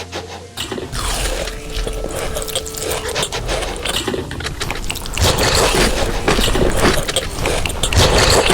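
Wet scraping and clinking of utensils in a bowl of noodles, a dense run of small clicks and squishy stirring sounds.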